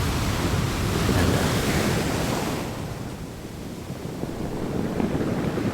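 Ocean waves breaking on a beach: a steady wash of surf that swells, eases off about halfway through, then builds again.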